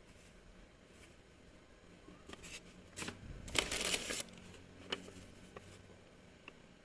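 Faint handling noises: a brief rustle with several sharp clicks, the rustle densest about halfway through.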